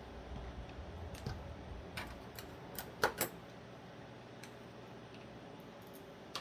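Light clicks and taps of small metal folding-knife parts being handled and fitted, with two louder clicks close together about three seconds in and another near the end.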